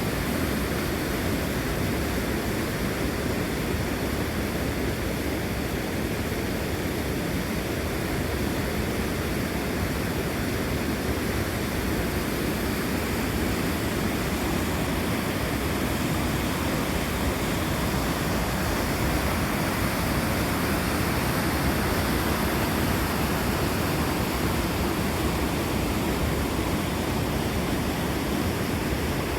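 Torc Waterfall: water falling and rushing, a loud, steady noise that holds even throughout.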